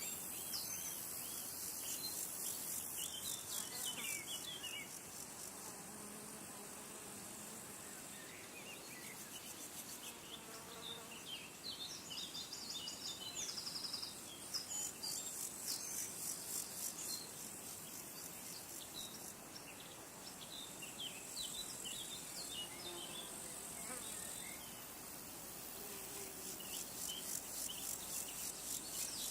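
Insects trilling: a high, fast-pulsing buzz that comes and goes in bouts of a few seconds. Small birds chirp throughout in short, quick notes.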